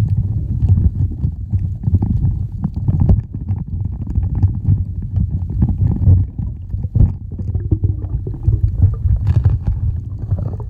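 Muffled low rumbling of water with scattered knocks and clicks, the dull churning sound of water moving against a camera on the water or under it.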